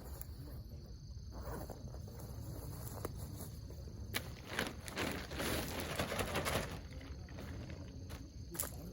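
Outdoor ambience with a steady low rumble, intermittent rustling and scraping, and a few sharp clicks.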